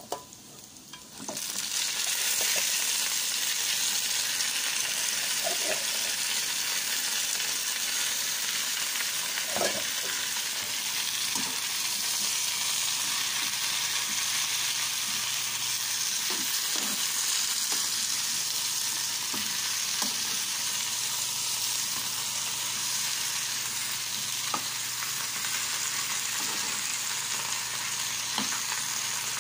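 Kangkong (water spinach) frying in hot oil in a pan: a steady sizzle starts about a second and a half in as the greens go in. A spatula stirring the greens makes a few light knocks.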